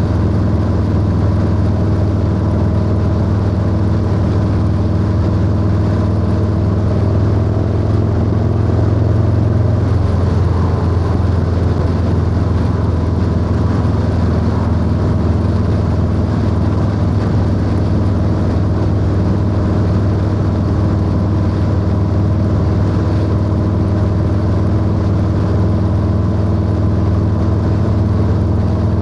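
Harley-Davidson Low Rider S (FXLRS) V-twin running at a steady pace through a 2-into-1 exhaust, heard from the rider's seat. The engine note changes briefly about ten seconds in, then settles steady again.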